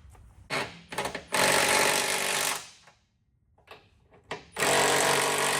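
A 3/8-inch impact gun with a 15/16 socket running down the frame machine's pinch-weld clamp bolts: a few short blips, then a long rattling burst, a pause, and a second long burst near the end.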